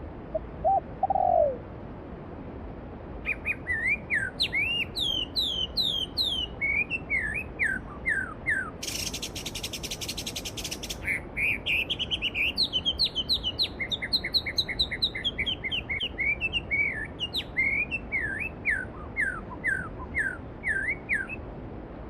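Songbirds singing in quick runs of high, down-slurred whistles, with a brief dense buzzy trill about nine seconds in, over the steady rush of a valley stream. A single lower, falling call comes just before the singing starts.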